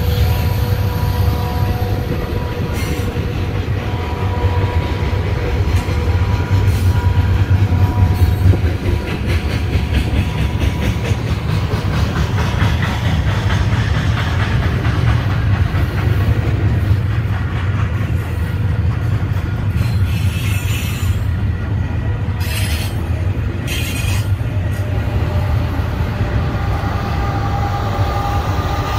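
Double-stack container freight train passing close by: a steady, loud rumble of steel wheels on the rails with the clacking of the cars over the joints, and a faint high whine in the first few seconds.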